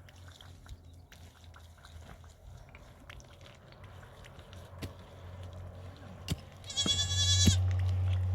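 A goat bleats once near the end, a short quavering call. A few sharp knocks sound before and after it, over a low steady hum.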